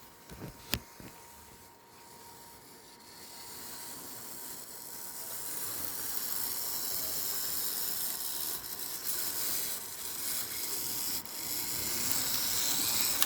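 HO-scale model train running along its track: a steady, high, rattling whir that grows louder over the first several seconds and then holds, after a few clicks near the start.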